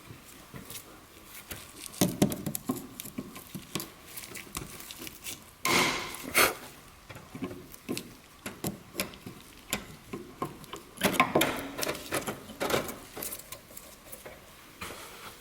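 Hand tools and metal brake parts clicking, tapping and scraping in irregular bursts during brake-line removal, with louder scrapes and rattles about six seconds in and again around eleven to thirteen seconds.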